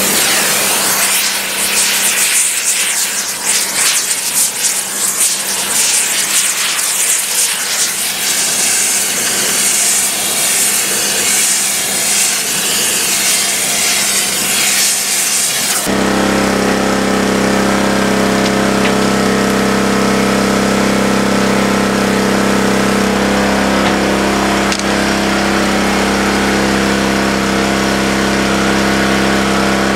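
An abrasive power tool works on the steel rail, a loud, harsh, uneven grinding hiss. About halfway through it cuts off abruptly and a steady engine takes over, running at an even pitch.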